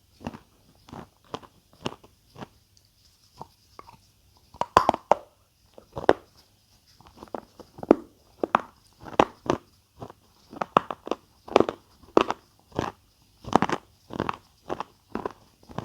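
Close-miked chewing of crunchy food, a sharp crunch about twice a second, with several louder bites from about four seconds in.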